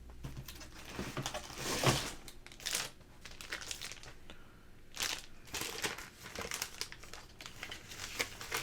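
Plastic packaging crinkling and rustling in irregular bursts as comic books are handled and unpacked, with the loudest rustles about two and five seconds in.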